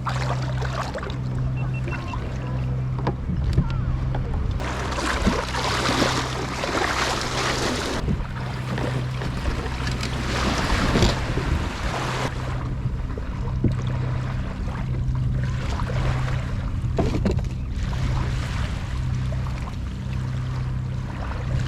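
Water sloshing and splashing around a kayak on the open bay, with wind on the microphone. Two louder spells of splashing come a few seconds in and again around the middle, over a low hum that keeps cutting in and out.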